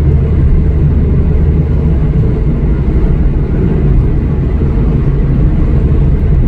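Steady low drone of engine and road noise inside a moving car's cabin.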